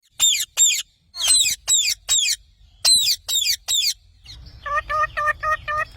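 Parrot calling: groups of short, shrill, high screeches that fall in pitch, two, then four, then four, followed from about four and a half seconds by a run of lower, evenly spaced calls, about three a second.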